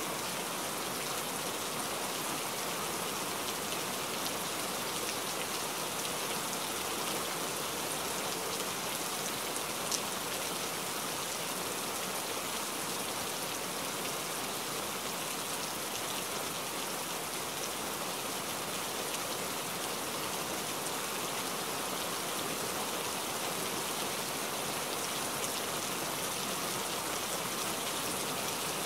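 A steady, even hiss like falling rain, unchanging throughout, with one faint tick about ten seconds in.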